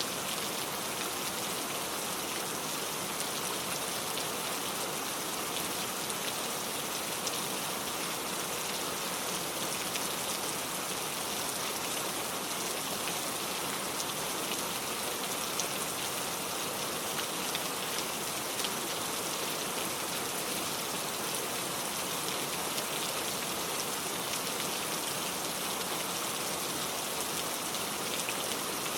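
Steady rain falling in a forest, an even hiss with scattered drops pattering on surfaces.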